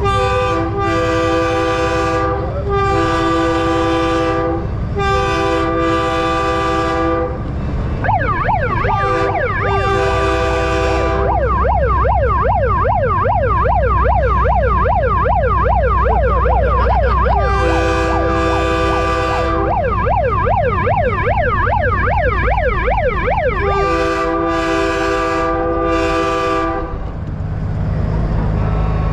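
Truck air horns of the train-horn type sounding a chord in repeated long blasts, taking turns with a fast rising-and-falling siren yelp in the middle stretches, over the low rumble of diesel trucks.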